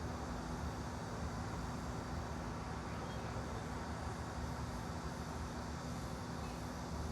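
Steady ambient background noise: an even low rumble and hiss with a faint constant hum, unchanging throughout, used as white noise.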